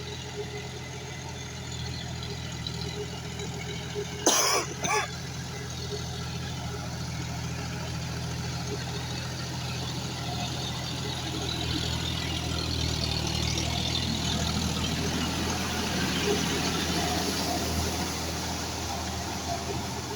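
John Deere 5105 tractor's three-cylinder diesel engine running steadily, getting louder in the second half. About four seconds in, two short loud sounds half a second apart cut through the engine noise.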